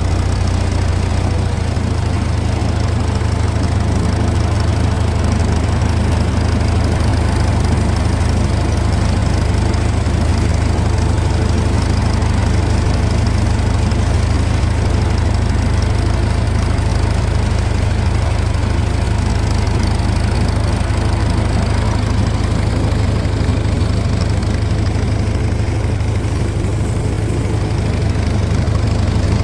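80 hp International tractor engine running steadily, a loud low drone that shifts slightly in pitch about a second and a half in.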